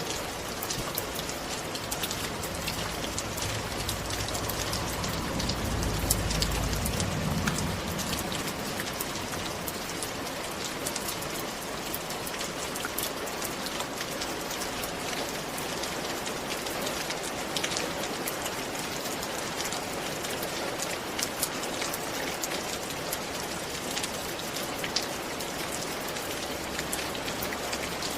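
Steady rain falling, with many sharp drop ticks on a hard surface. A low rumble swells and fades during the first several seconds.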